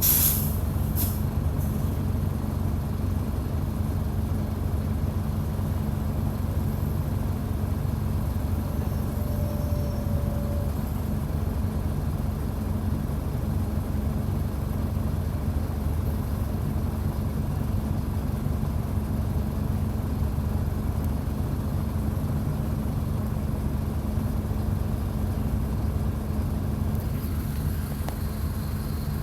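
Mercedes-Benz OF-1722 bus's diesel engine, heard up close, running at a steady speed with a deep, even rumble. A short hiss sounds at the very start.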